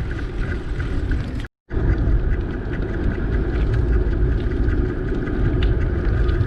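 Wind rushing over the microphone as a bicycle is ridden along a road, a steady low noise. It cuts out for a moment about a second and a half in.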